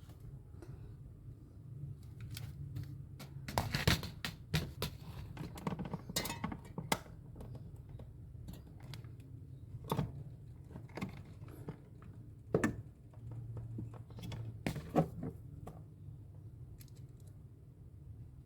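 Irregular clicks and light knocks of hands handling tools and parts, heaviest about four seconds in and again around ten to fifteen seconds, over a steady low hum.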